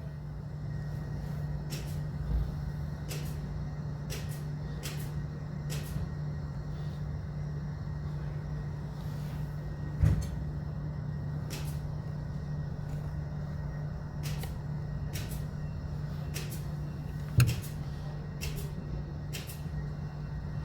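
Scattered light clicks and a few louder clunks of a hand tool working the DSG gearbox's oil filter housing loose, over a steady low hum.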